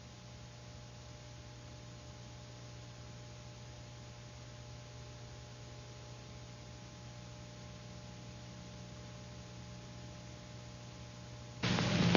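Old optical film soundtrack hiss with a steady low hum. Near the end a sudden loud burst of noise cuts in.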